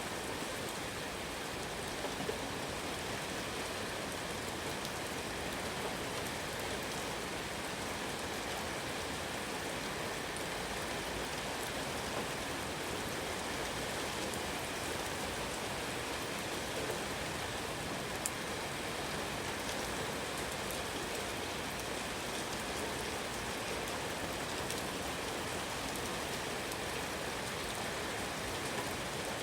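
Steady rain falling, an even hiss of drops on surfaces, with a few single louder drop ticks.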